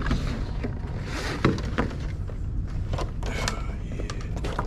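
A steady low rumble, with scattered short clicks and light knocks over it.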